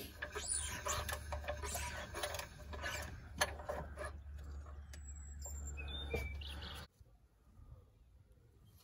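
Small birds chirping against a steady low hum, with scattered light clicks and knocks. The hum and clicks stop abruptly about seven seconds in, leaving a much quieter background.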